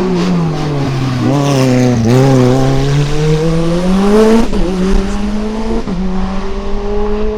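Race car engine on a hillclimb run. It comes off the throttle with its note falling, then accelerates hard with the pitch climbing, and shifts up twice, the note dropping sharply about four and a half and six seconds in before rising again.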